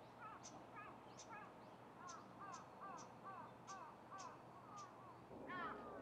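Faint bird calls: a run of short arched notes, about two a second, each with a high tick. Louder calls of the same arched kind start near the end.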